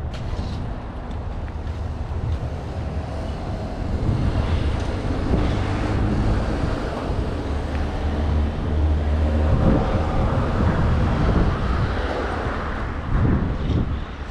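Road traffic: the low running rumble of a motor vehicle passing close by, growing louder about four seconds in and easing off near the end.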